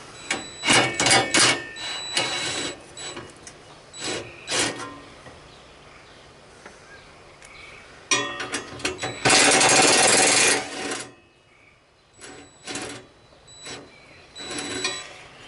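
Hood and grill parts being handled and fitted: scattered knocks and clicks, with a longer dense rattling scrape from about eight seconds in.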